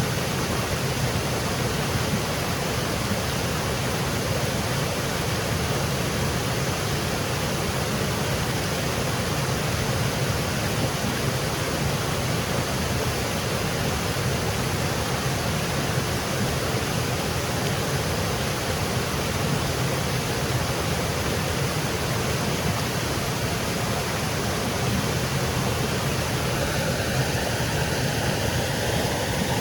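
Small woodland waterfall: water cascading and splashing in a steady, unbroken rush. Near the end a faint steady hum begins under it.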